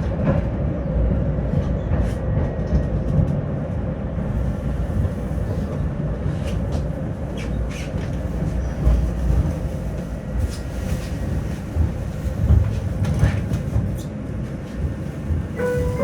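Tram running along the track, heard from inside the passenger car: a steady low rumble of wheels and running gear with scattered short clicks. Near the end a chime of a few falling tones starts, the signal that comes before the stop announcement.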